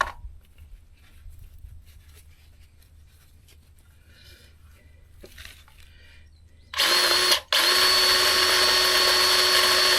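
DeWalt 20V cordless grease gun motor starting nearly seven seconds in: a short burst, a brief break, then a steady run with a constant whine. It is pumping grease through to purge air after a new tube is loaded. Faint handling sounds come before it.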